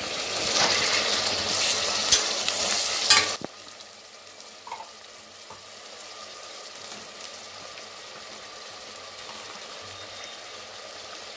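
Chopped tomatoes sizzling in hot oil in a pressure cooker, loud at first with a spoon stirring through them. About three seconds in there is a sharp clink, and the sizzle drops suddenly to a quieter, steady frying.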